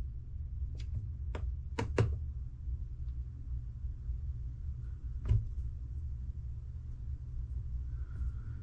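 Small sharp clicks and taps from tools and parts on an RC drag car while the motor is shifted to set the pinion-to-spur gear mesh: four in quick succession in the first two seconds and a louder one about five seconds in, over a steady low hum.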